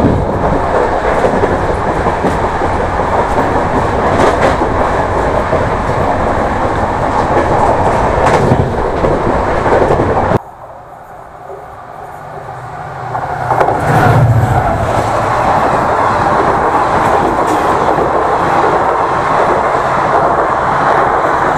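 Express passenger train running at speed, heard loud from beside an open coach door: a steady rolling rumble of steel wheels on rails with occasional sharp clacks. The noise drops suddenly about ten seconds in, builds back up a few seconds later, and a low thump comes near the middle.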